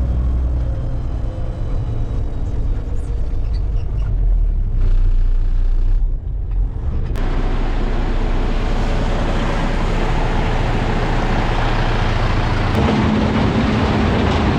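Diesel dump truck running: a low, steady engine note for the first several seconds, then about seven seconds in a loud, steady rushing noise comes in and holds.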